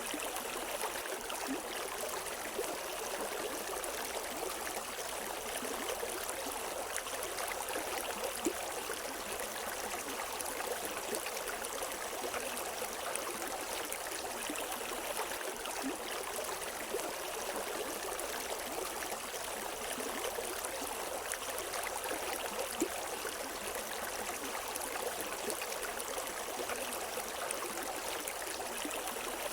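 A river running steadily over rocks, an even rush of water with small splashes and burbles, no birds.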